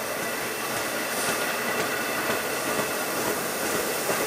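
Long Island Rail Road bilevel passenger coaches rolling past on the rails: a steady noise of wheels on track with faint clicks and a faint high whine, getting slightly louder toward the end.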